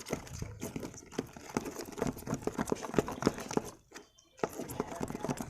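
Wet snow slime being stirred and mixed, making quick irregular sticky clicks and squelches, with a brief pause about four seconds in.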